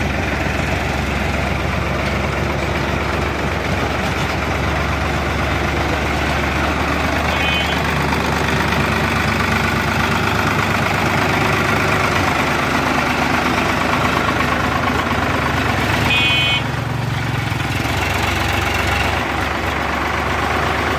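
Heavy machine engine running steadily at an even speed, with two brief high squeaks, about seven and sixteen seconds in.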